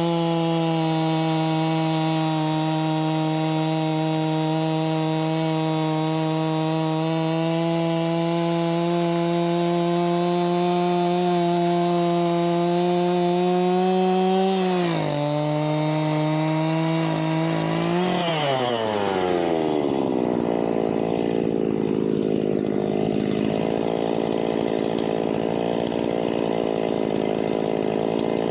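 Two-stroke chainsaw running at full throttle through a cut, its pitch creeping up slightly, with a brief dip about halfway through. A few seconds later the throttle is released and the engine winds down to a steady idle for the rest.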